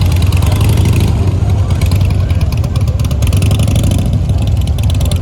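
Motorcycle engines running at low speed, a loud steady low rumble.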